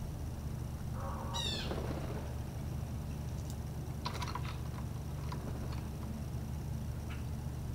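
Birds calling: one squeaky call of quick falling sweeps about a second in, then a cluster of short chips around four seconds and a few scattered single chips after, over a steady low hum.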